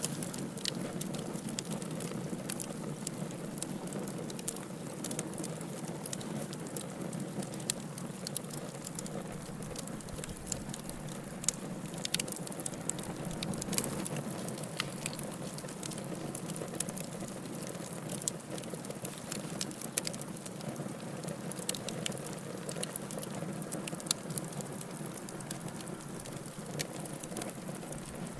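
Wood fire in a fireplace crackling: a steady low rush of flames with frequent, irregular sharp pops and snaps.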